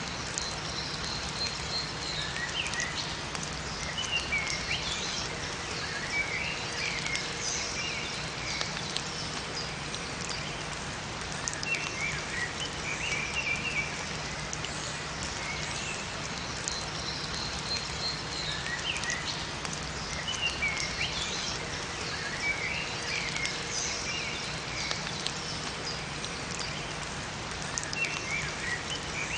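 Steady rain falling in a forest, an even hiss, with small songbirds chirping and twittering in short bursts every few seconds over it.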